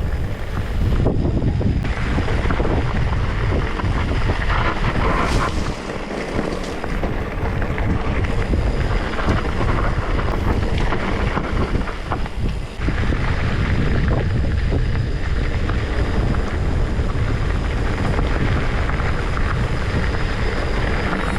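Wind buffeting the microphone of a camera carried on a moving bicycle, a dense rumbling noise with scattered clicks and knocks from the ride.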